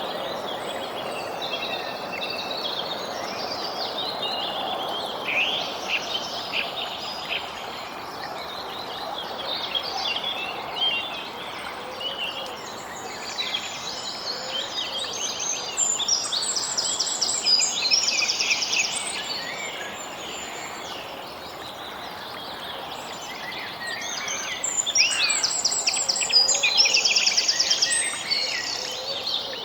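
Several songbirds chirping and twittering over a steady background hiss, with two loud, rapid trills, one about midway and one near the end.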